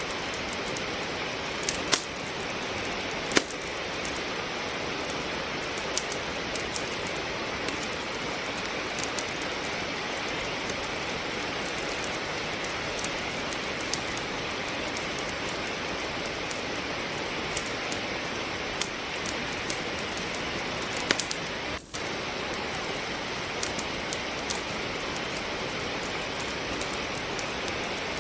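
Steady rain with a wood fire crackling in a fireplace: an even hiss of rainfall under scattered sharp pops and snaps of burning logs, the loudest pops a few seconds in. The sound briefly drops out for a moment about three-quarters of the way through.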